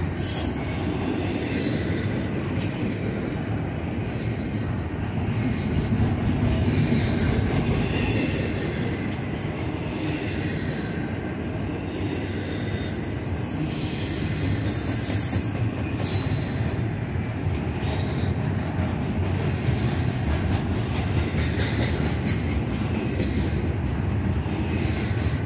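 Double-stack intermodal freight cars rolling past close by: a steady rumble of steel wheels on rail, with a high-pitched wheel squeal that comes and goes, strongest about halfway through.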